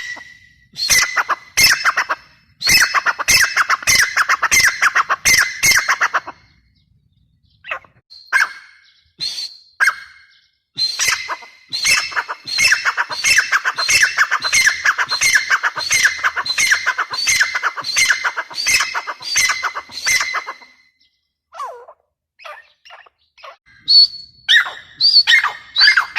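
Grey francolin calling: long bouts of fast, harsh, rapidly repeated notes, broken by a pause with a few single notes and a short falling call near the end.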